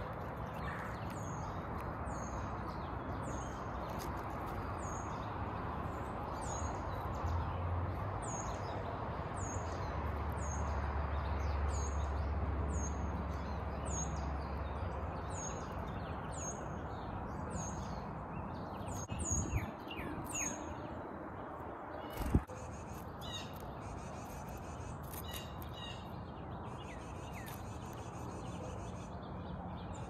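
Wild birds calling: a short, high, falling chip note repeated about once a second through the first half, then scattered chirps, over a steady outdoor background hiss. A single sharp knock about two-thirds of the way through is the loudest sound.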